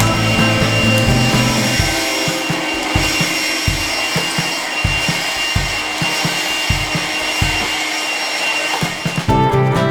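Japanese hand saw (nokogiri) cutting through a wooden board in repeated rasping strokes.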